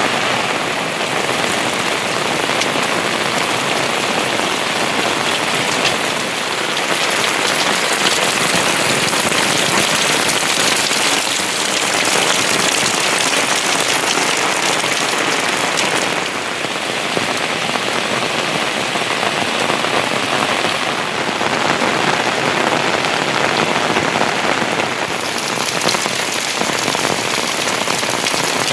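Heavy rain falling steadily, a dense even hiss that swells and eases slightly every few seconds.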